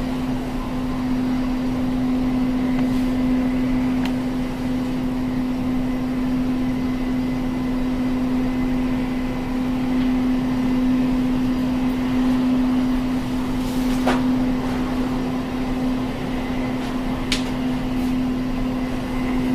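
A steady mechanical hum holding one constant low tone over a soft noise, with a couple of faint ticks in the second half.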